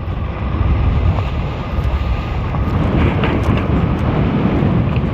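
Steady wind rush and rumble on the microphone while riding a fat-tire e-bike, a little louder from about a second in.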